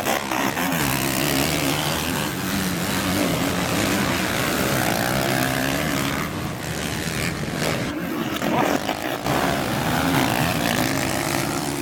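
Motocross motorcycle engines running hard, their pitch rising and falling with the throttle.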